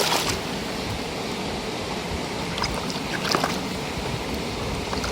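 Water running and splashing steadily as a muddy toy bus is rinsed, with a few faint knocks of the plastic toy.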